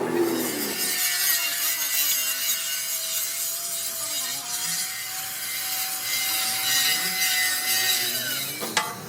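Steel being ground or cut with a power tool during bucket repair work: a steady rasping hiss with a held whine that dies away about a second before the end.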